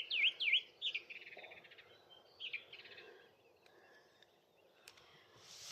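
Song thrush singing: a phrase of sharp whistled notes repeated several times, then a quick rattling phrase about a second in and another short phrase at about two and a half seconds, after which the song goes quiet.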